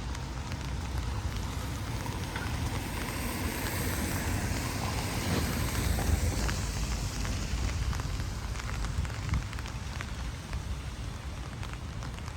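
Storm wind and rain from an arriving hurricane, the wind rumbling on the microphone, with scattered faint ticks, swelling a little midway.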